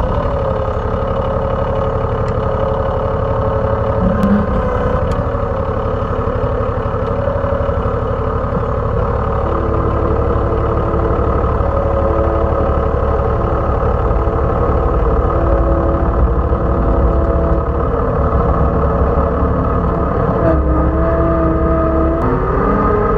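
A John Deere 2305 compact tractor's three-cylinder diesel engine running steadily under load while mowing overgrown grass with a rotary brush mower.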